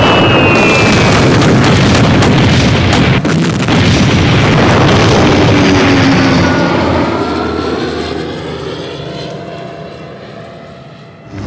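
Propeller fighter aircraft flying low overhead, their engines loud and dense for several seconds. A couple of short high whistling tones fall slightly in pitch along the way. Over the last few seconds the engine sound fades steadily as the planes pass and fly off.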